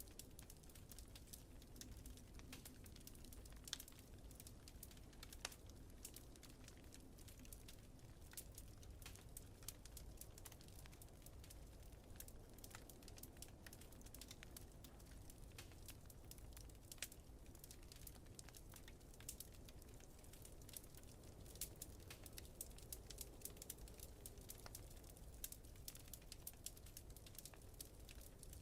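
Faint wood fire crackling, with frequent irregular small pops and snaps that come thicker in the second half, over a low steady rumble of wind.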